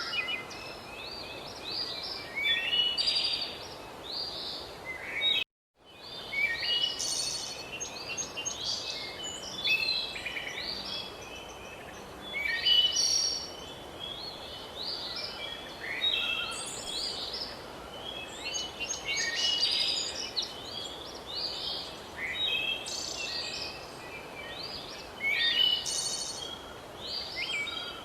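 Several songbirds chirping and singing, many short calls overlapping, over a faint steady outdoor hiss; the sound cuts out completely for about half a second around five seconds in.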